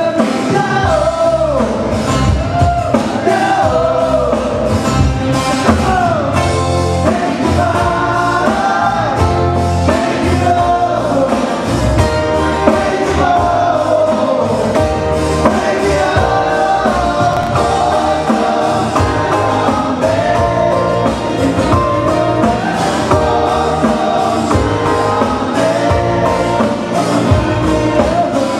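Live band playing Hawaiian music, with singing, some of it in harmony, over guitar, bass and drums.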